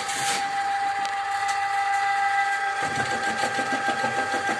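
Electric drain-cleaning machine running with a steady high motor whine; a lower, rough churning joins about three seconds in as it works on a floor drain clogged with fibres.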